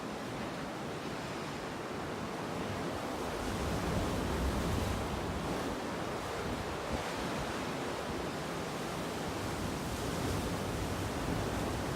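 Steady sea surf with wind buffeting the microphone, the low rumble swelling about four seconds in and again near the end.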